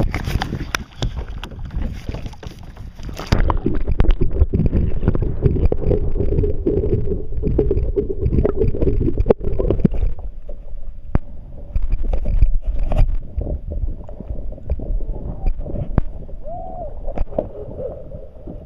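Low rumble of wind on the microphone and water sloshing against a fishing kayak, with scattered knocks and clicks from handling; it gets louder about three and a half seconds in.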